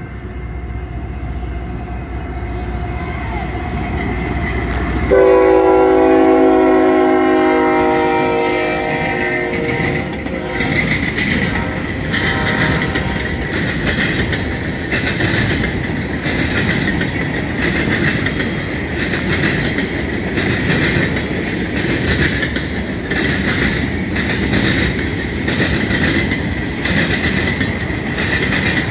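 A diesel freight train passing a grade crossing: the locomotives rumble louder as they approach, then give one long horn blast about five seconds in. The freight cars then roll by with a steady rhythmic clacking of wheels over the rail joints and a high steady ring from the wheels.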